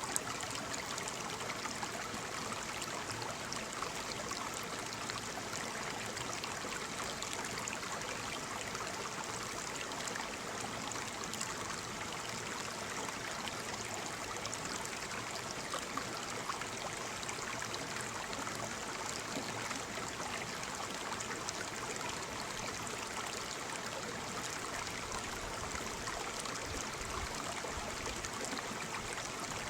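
Waterfall: water falling and splashing in a steady, even rush, with many small splashes in it.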